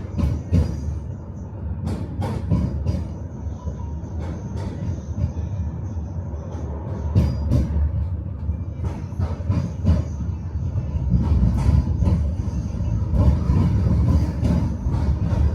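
Tram running along the track: a steady low rumble with sharp knocks and clacks at irregular intervals as the wheels cross rail joints, and a faint high whine throughout.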